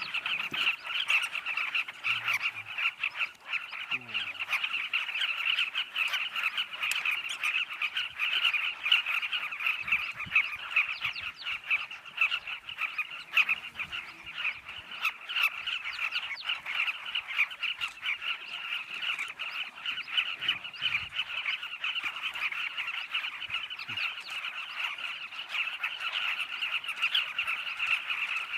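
A dense, continuous chorus of many animals calling at once: countless rapid, overlapping chattering calls, steady throughout.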